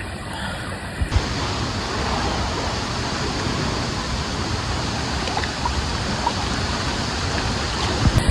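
Steady rushing of a large waterfall's plunging water, with a couple of brief thumps about a second in and near the end.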